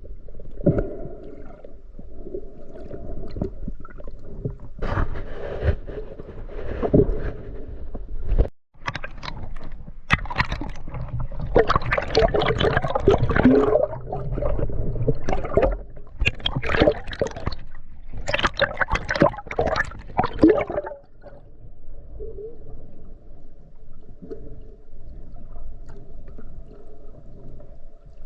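Water gurgling and sloshing around the camera, muffled as if underwater, with a louder stretch of splashing in the middle.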